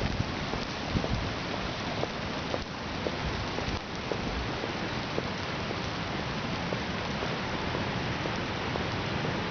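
Steady rain falling, with many individual drops landing close by as small scattered clicks.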